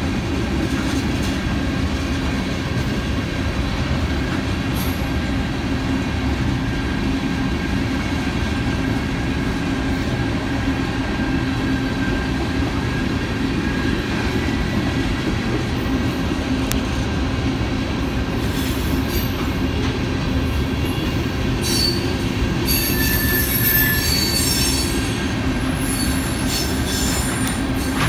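Freight train of covered hopper cars rolling past, a steady rumble of steel wheels on rail. In the last several seconds, high-pitched wheel squeal comes in over the rumble.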